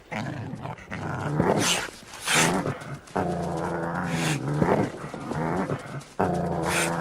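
Coyotes and a North American river otter fighting: growls and harsh snarls, with a long drawn-out growl from about three seconds in and another starting near the end.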